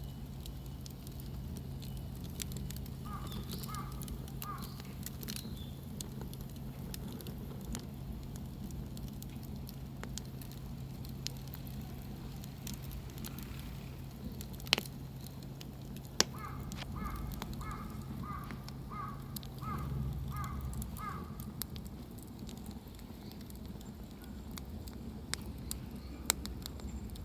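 Wood fire crackling with scattered sharp pops, two of them loud about halfway through, over a steady low hum. A crow caws in short repeated calls: a few about three seconds in, and a longer series in the second half.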